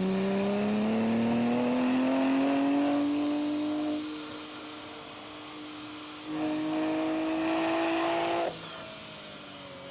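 BMW G87 M2's twin-turbo 3.0-litre inline-six at full throttle on track, heard at the exhaust and intake: revs climb for about four seconds, then the throttle closes and it falls to a lower drone. About six seconds in it pulls hard again, rising steadily, and cuts off suddenly near the end with the revs falling away. The exhaust runs through a resonator- and secondary-cat-delete midpipe with its valves held fully open.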